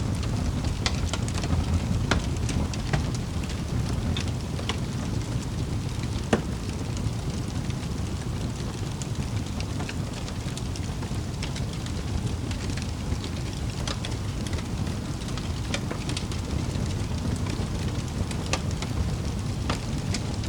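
Wood fire in a fireplace crackling: a steady low rumble of flames with scattered sharp pops, one louder pop about six seconds in.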